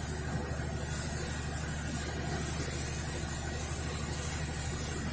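Thames Clippers river-bus catamaran under way, its engines running with a steady low drone and a hiss over it.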